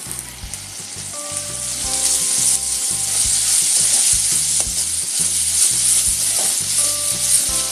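Chopped onions, tomato and fresh coriander frying in hot oil in a metal pan over a medium gas flame, with a steady sizzle that grows louder about a second in. A steel spoon stirs and scrapes the pan, with a few light knocks.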